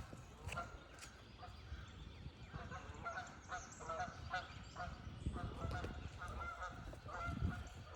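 Canada geese honking, many short repeated calls overlapping.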